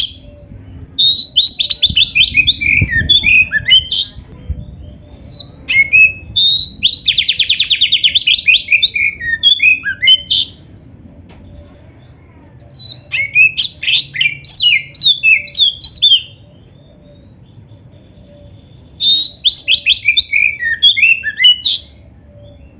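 Oriental magpie-robin (kacer) in full song, loaded with mimicked phrases: four bursts of fast, high trills and whistles a few seconds apart, with short pauses between them.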